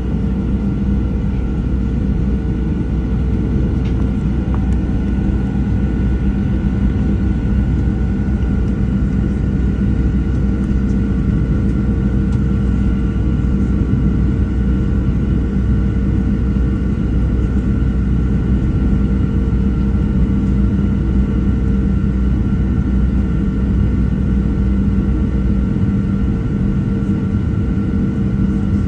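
Steady cabin rumble of a Boeing 737-700 with its CFM56-7 turbofans running, heard from inside the passenger cabin, with a steady engine hum over a deep roar. The deepest part of the rumble eases a little near the end.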